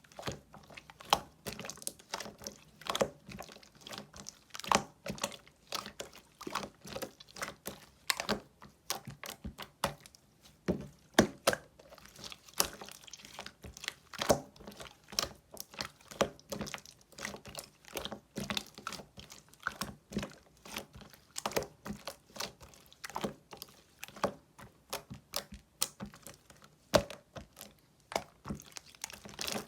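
Clear slime being pressed and worked by hand, making irregular sticky clicks and small pops, several a second.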